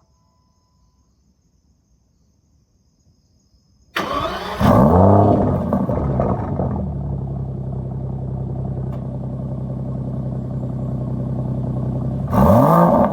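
Aston Martin DBS Volante's V12 engine starting about four seconds in, flaring to high revs, then settling into a steady idle. A quick rev blip comes near the end.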